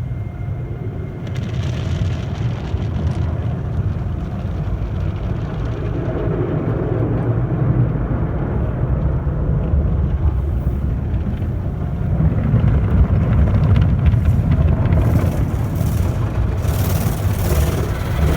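Tunnel car wash heard from inside the car: a steady low rumble of the machinery, with water spray and brushes working against the body. It grows louder, and from about ten seconds in there is more hiss and brief sharp hits.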